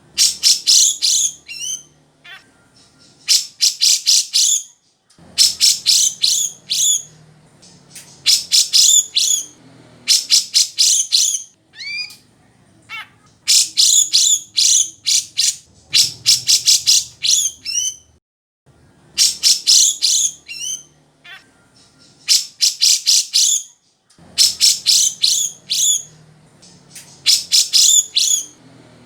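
Grey-cheeked bulbul (cucak jenggot) singing: loud phrases of rapid, high, repeated notes, each a second or two long, with short pauses between them.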